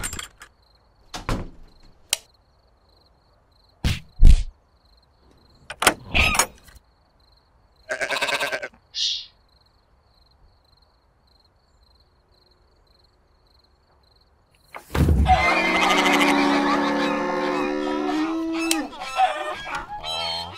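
A rooster crowing once, a long call of about four seconds near the end. Before it come a few short, sharp knocks and clicks, the loudest a sharp knock about four seconds in, and a brief hiss about eight seconds in.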